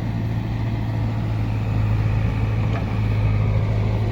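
Heavy diesel engine running steadily at constant speed, with a strong low drone.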